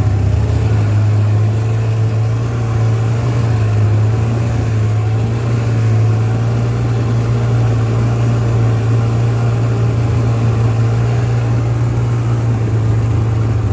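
Snowmobile engine running steadily at an even pitch, a loud low drone with a higher whine above it.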